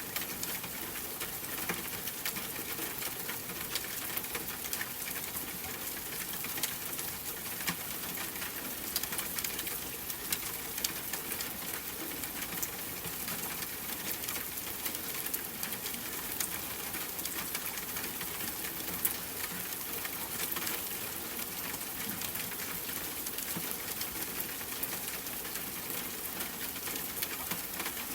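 Steady rain pattering on a window and surfaces, a continuous hiss dotted with many small drop ticks.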